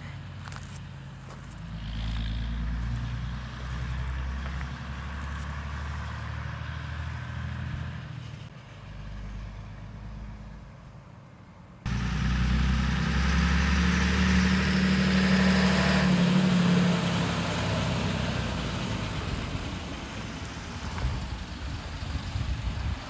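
Scania LS 64 truck's diesel engine running, its sound swelling and easing a few times. About halfway it jumps suddenly louder and is revved for a few seconds, then drops back.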